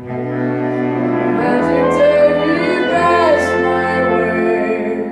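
A band with a horn section playing a long held chord that comes in suddenly, its bass note changing about a second and a half in.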